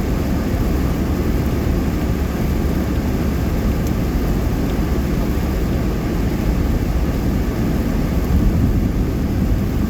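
Steady road noise inside a moving car's cabin: tyres on a wet highway with a low engine and wind drone at highway speed.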